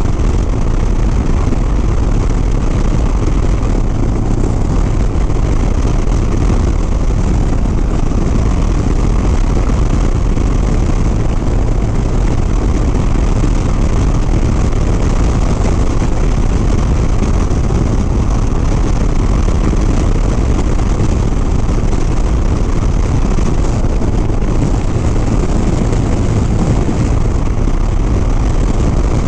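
Harley-Davidson Sport Glide V-twin motorcycle cruising at steady highway speed, its engine running under a constant rush of wind noise on the rider's microphone.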